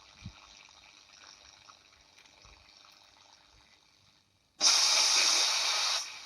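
Philips Prestige valve radio tuned to medium wave, giving a faint hiss with a weak station under it. About four and a half seconds in, a loud burst of static hiss comes in for over a second, then drops back to a quieter hiss.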